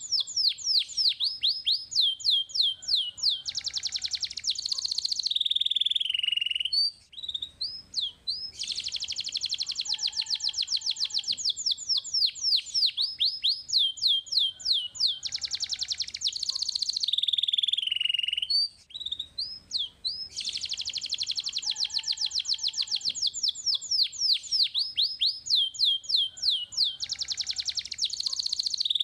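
Young domestic canary singing: long, rapid trills of short, high, down-slurred notes with changes of phrase between them. Brief pauses break the song about every twelve seconds, and the same run of phrases comes back each time, as in a looped training recording.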